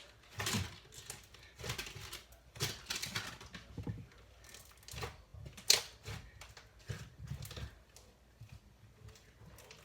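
Butter slime being kneaded and poked by hand, giving irregular sticky clicks and smacks, the sharpest one a little over halfway through.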